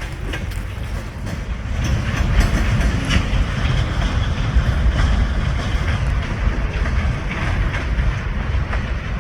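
Freight train rolling past at close range: a steady low rumble with steel wheels clicking over the rail joints.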